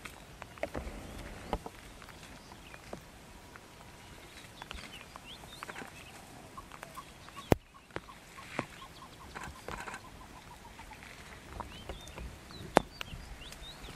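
Birds calling in short chirps, with a run of quick repeated notes in the middle, and a few sharp snaps, the loudest about halfway through and another near the end.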